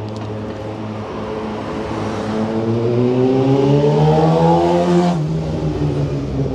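A motor vehicle's engine accelerating close by, its pitch rising steadily for about three seconds and growing louder, then dropping suddenly about five seconds in, over the steady hum of street traffic.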